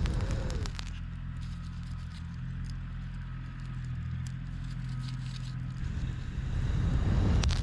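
Heavy equipment engine running steadily at a low, even pitch, with clanks near the start and a louder burst of clanking and rattling near the end.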